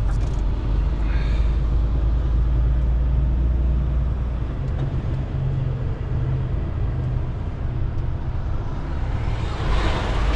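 Semi truck's diesel engine running with road noise, heard inside the cab as the truck drives. A brief hiss swells up near the end.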